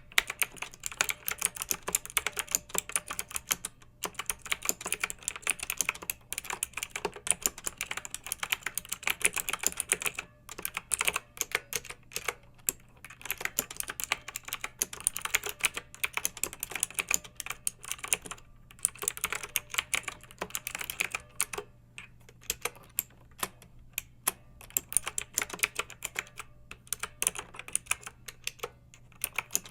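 Clicky mechanical keyboard being typed on in fast, irregular bursts of keystrokes, with brief pauses every few seconds.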